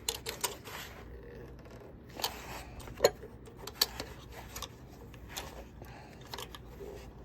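Scattered sharp metal clicks and scrapes from tools and brass fittings being handled while a water heater's pop-off (pressure relief) valve is fitted. The sharpest click comes about three seconds in, with another shortly after.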